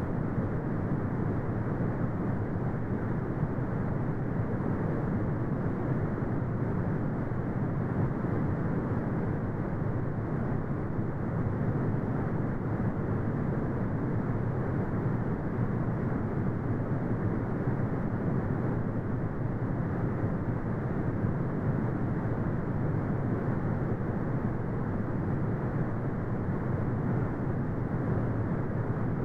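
Brown noise: steady, deep rumbling hiss with its energy in the low and low-middle range and nothing high, unchanging throughout.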